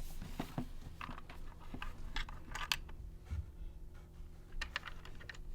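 Small plastic toy furniture and accessories being handled and set in place: a scattering of light, irregular clicks and taps.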